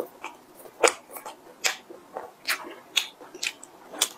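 Close-miked chewing of a mouthful of bun with the lips closed: wet mouth smacks, about two a second.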